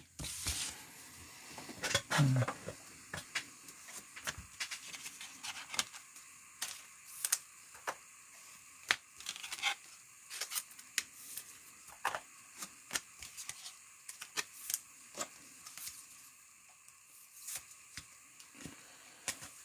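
Trading cards being handled and flipped through one at a time, a run of short, irregular clicks and rustles.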